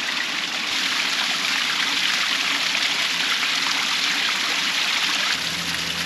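Stream water rushing steadily, an even hiss; a low hum joins in near the end.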